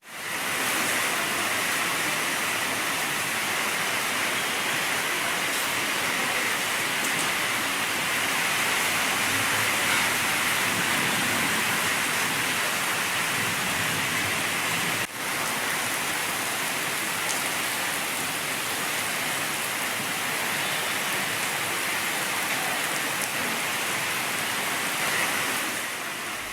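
Heavy rain pouring steadily, an even hiss of water, with one brief break about halfway through.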